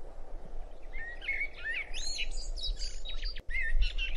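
Birds chirping and whistling, a string of quick rising and falling calls, over a steady low rumble of background noise.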